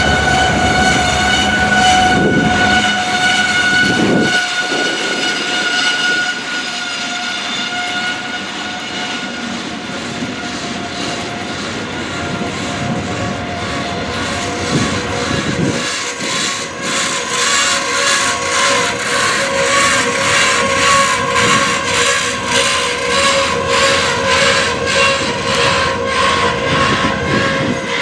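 Freight train of boxcars rolling past, with a steady high-pitched ringing over the rumble of the cars. From about halfway through, the steel wheels click over rail joints in an even rhythm.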